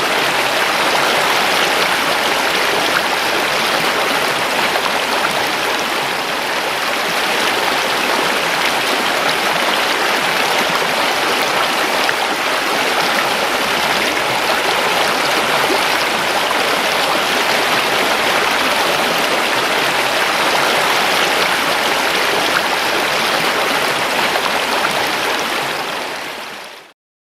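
River water flowing in a steady rush, fading out near the end.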